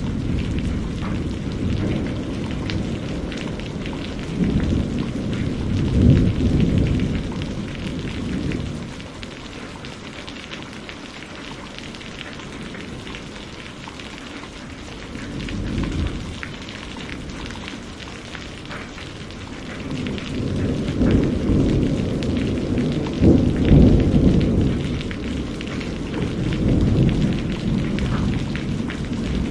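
Steady rain falling, with rolling thunder. The rumbles swell and fade several times: through the first several seconds, briefly about halfway, and again through the last third.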